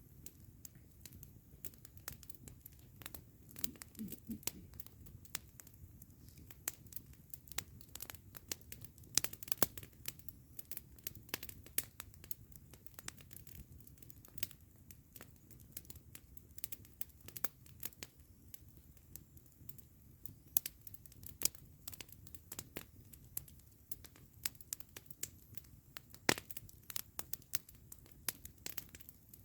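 Campfire crackling, with irregular sharp pops and snaps of burning wood, some loud, over a faint low rumble.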